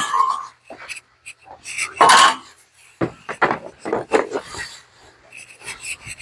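Objects and tools being handled and set down: a string of knocks, clatters and rubbing scrapes, the loudest about two seconds in, with quicker sharp clicks a second or so later.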